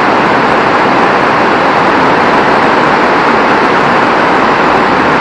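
Very heavy rain falling, a loud, steady hiss with no change in level.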